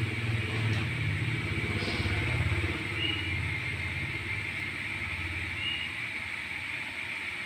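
A small engine running at low speed, its low pulsing hum fading about three seconds in. Under it runs a steady high-pitched drone, with two short chirps.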